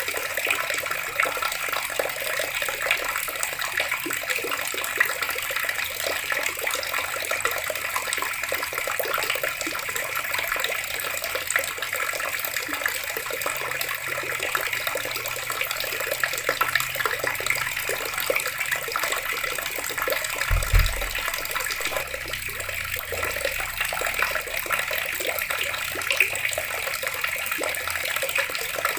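Water running steadily from a tap, an even splashing rush. A brief low thump sounds a little past two-thirds of the way through.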